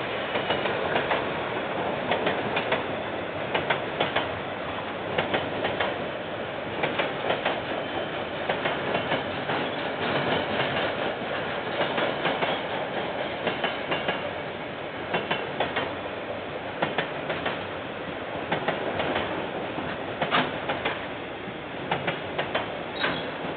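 Train rolling past on the track, its wheels clicking irregularly over the rail joints above a steady rumble, heard through a security camera's microphone.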